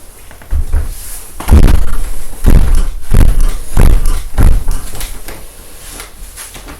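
A run of about six heavy, low thuds at a walking pace, roughly one every two-thirds of a second, fading out after about four and a half seconds.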